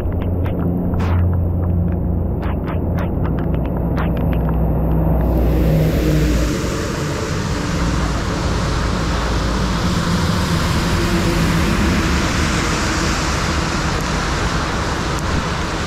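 Heavy rain pouring on a flooded street over a steady low rumble. In the first five seconds there are short sharp splashes from wading through shallow floodwater; after that the hiss of the rain fills in.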